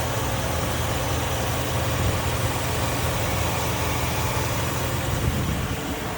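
2008 GMC Sierra 1500 pickup's engine idling steadily.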